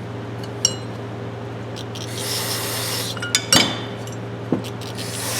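Aerosol cleaner sprayed in a hissing burst of about a second, starting about two seconds in, with another beginning near the end. Light metal clinks of the adjustable wrenches being handled come in between, over a steady low hum.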